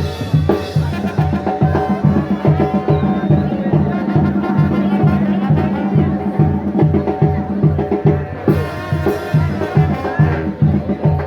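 Band music with a steady bass-drum beat under held horn notes, with a crash near the start and another about eight seconds in.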